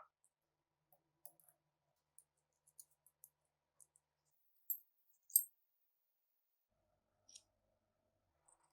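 Scattered small metallic clicks and taps of pistol parts being handled, two louder sharp clicks a little under a second apart near the middle.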